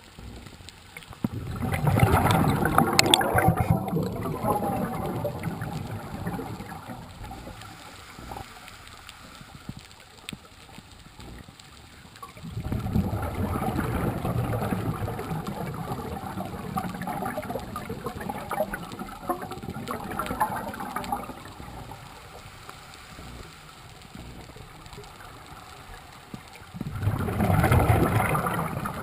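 Scuba diver's exhaled bubbles gurgling out of the regulator underwater, in three surges: a short one about a second in, a long one in the middle, and another near the end.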